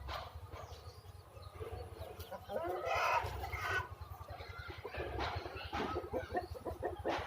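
Aseel chickens clucking, with one longer drawn-out call about three seconds in and a quick run of short clucks in the second half.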